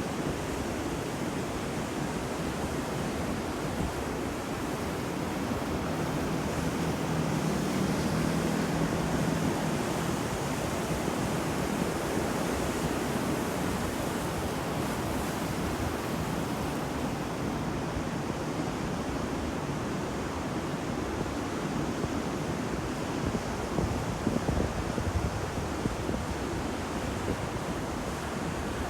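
Ocean surf: waves washing continuously onto a shore, swelling a little louder about a quarter of the way through.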